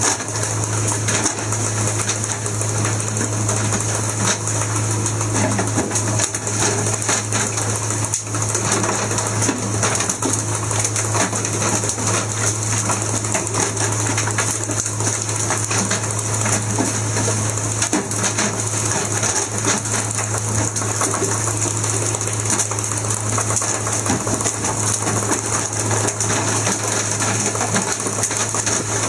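Fishing boat's engine running steadily: a low hum under a fast, even rattle.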